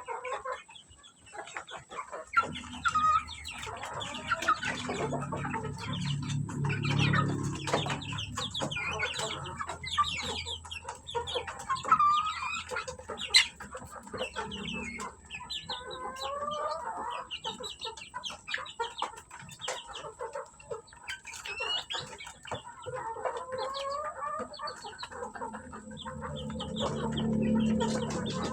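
A flock of Indonesian village chickens (ayam kampung) clucking and peeping, with many short calls overlapping. A low steady hum sounds underneath from about two seconds in to nine seconds, and again near the end.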